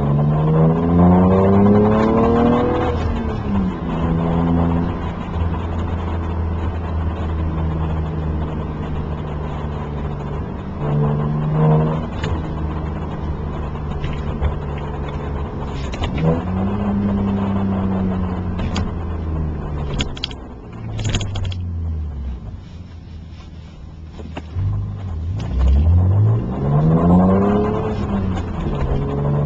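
BMW 335i's twin-turbo inline-six through a Turner Motorsports cat-back exhaust, heard from inside the cabin. The engine note rises in pitch under hard acceleration at the start, then settles into a steady drone. It climbs again about halfway through, eases off and quietens after about two-thirds, and rises once more near the end.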